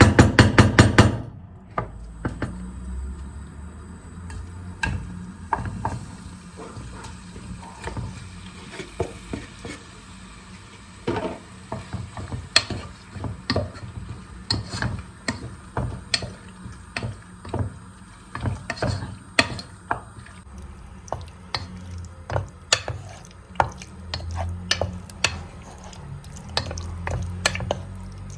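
Kitchen utensils and dishes clinking and knocking irregularly, opening with a quick run of loud knocks in the first second.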